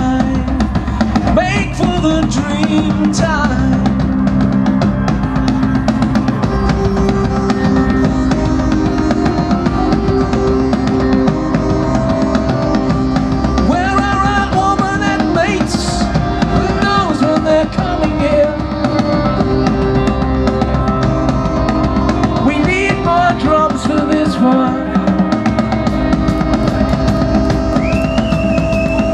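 Live Celtic tribal music: bagpipes playing over heavy pounding drums, with the pipes' steady drone held underneath the melody.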